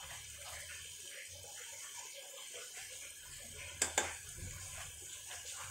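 Mutton keema sizzling and bubbling as it fries in an aluminium pressure cooker, with two sharp clicks about four seconds in.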